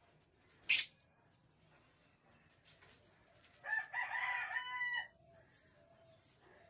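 A rooster crows once, a single call about a second and a half long, a few seconds in. Shortly before it there is one brief, sharp click.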